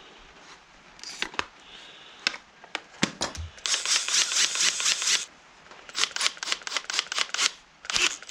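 Clicks, rattles and rustling from hands handling small metal hardware: the slider bolt lock and its screws. There is a burst of rustling in the middle and a quick run of clicks near the end.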